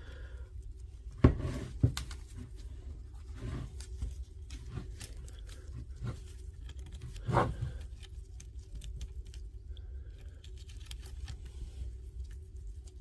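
Hands working on a cordless SDS hammer drill's chuck: scattered small clicks and scrapes of handled parts, with a sharp knock about a second in, another just after, and a louder clatter about seven seconds in, over a low steady hum.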